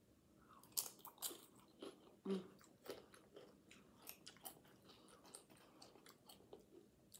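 A salsa-dipped tortilla chip being bitten and chewed: a quick run of sharp, irregular crunches in the first three seconds, then softer, sparser crunches.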